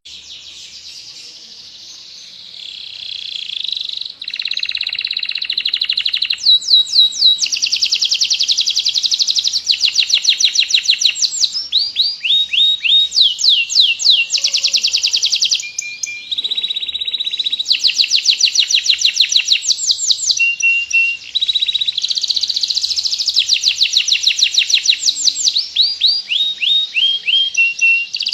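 Domestic canary singing a long, continuous song of rapid trills ("rol panjang"): fast runs of repeated sweeping notes, some rising and some falling, changing from one trill to the next every second or two. The song starts softer and grows loud after about two seconds.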